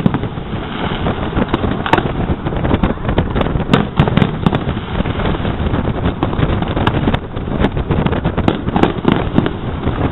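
Fireworks going off: a string of sharp bangs and crackles over a steady low rumble.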